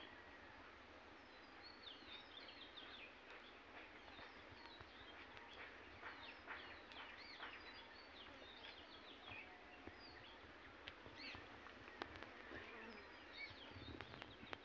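Faint bird chirps, many short calls sliding up and down in pitch, over a low steady background hiss.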